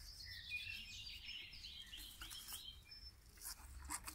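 Faint chirping of small birds in the background, with a few short clicks near the end.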